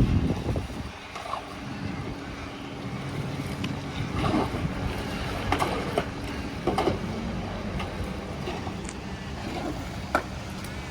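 An engine running steadily at an even pitch, with scattered short clicks and knocks over it.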